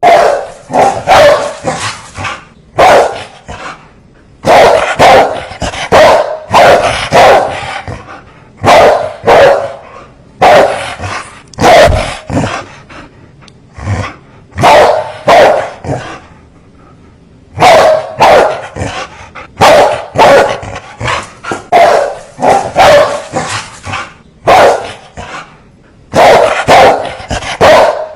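Dogs barking fiercely in loud, repeated volleys, often several barks in quick succession, with short pauses between volleys, the longest about two-thirds of the way through.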